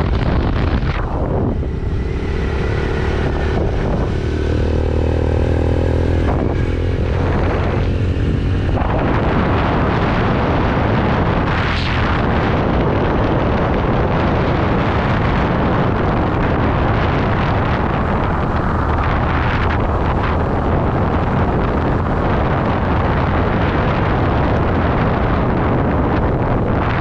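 Yamaha YBR125G's single-cylinder engine running while the motorcycle is ridden, with wind buffeting the microphone. The engine's pitch is plain in the first several seconds; from about nine seconds in, the wind noise covers it.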